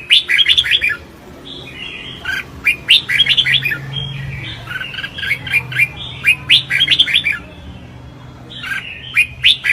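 Red-whiskered bulbul song, in the contest singing of caged bulbuls: short, quick bursts of bright chirping notes, coming every second or two.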